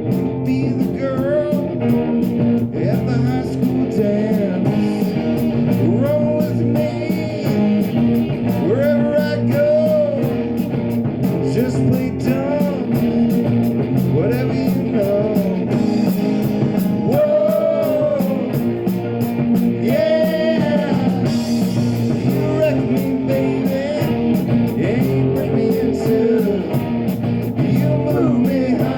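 Live rock band playing: a lead electric guitar bends and slides notes over bass and drums, with the hi-hat keeping a steady beat.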